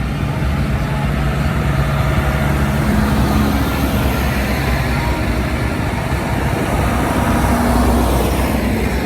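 Tractor diesel engines running as tractors drive past, with one going by and falling in pitch near the end.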